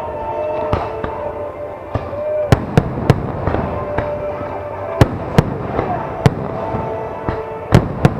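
Aerial firework shells bursting in about a dozen sharp bangs at uneven intervals, over a steady crackling din. Music with long held notes plays underneath.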